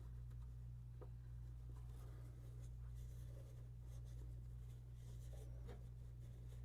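Faint rubbing and light scratching of the oil filter's sealing surface being wiped clean by hand, with a few small ticks, over a steady low hum.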